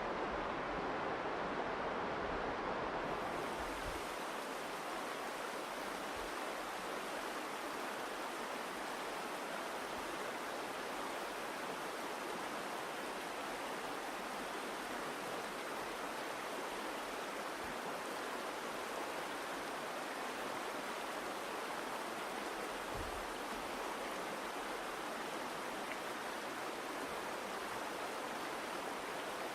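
Virgin River running through the canyon: a steady rush of flowing water. A low rumble beneath it fades out about four seconds in.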